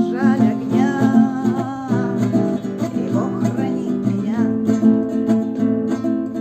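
Acoustic guitar strummed in a steady "eight" strumming pattern over simple open chords, with a woman's voice singing along.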